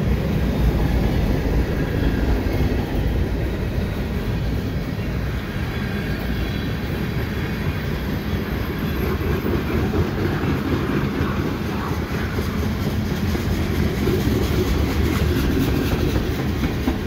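Freight train cars, mostly tank cars and covered hoppers, rolling past at speed: a steady rumble of steel wheels on the rails.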